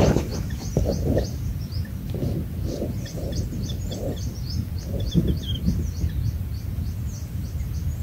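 Small birds chirping: a quick run of short, high, thin notes, several a second, over a steady low rumble of outdoor noise.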